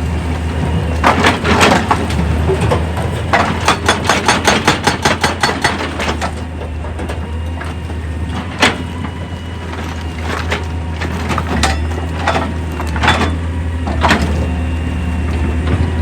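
Heavy machinery working rock: a steady low engine hum under repeated knocks and cracks of stone. A fast run of clattering a few seconds in, and one sharp crack about halfway through.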